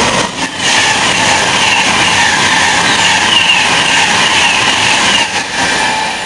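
Train passing close by at speed: a loud, steady rush of wheel and air noise with a faint ringing from the rails. It dies away after about five seconds.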